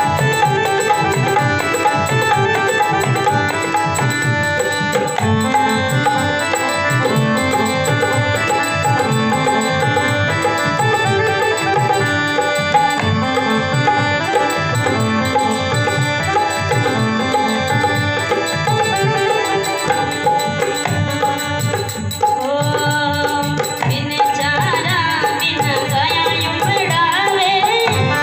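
Rajasthani folk devotional song music: hand drums keep up a steady, fast rhythm under a sustained melody. In the last few seconds a wavering, ornamented melody line comes to the fore.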